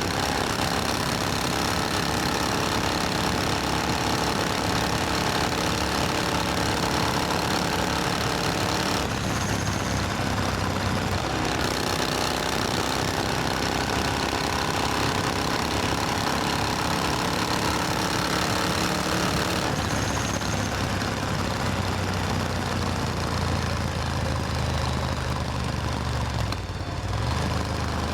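Supercharged Triumph Thunderbird Storm's parallel-twin engine running steadily, with its note changing about nine seconds in and again about twenty seconds in.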